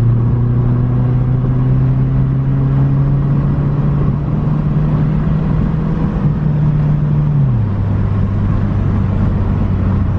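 Subaru Impreza 2.5 RS flat-four engine with its muffler deleted, running at a steady pitch with a loud exhaust drone. The pitch steps up slightly about six seconds in, then drops about seven and a half seconds in, as the revs fall.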